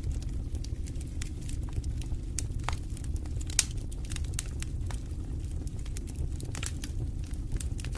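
Fireplace fire burning with a steady low rumble and frequent, irregular sharp crackles and pops, one louder pop about three and a half seconds in.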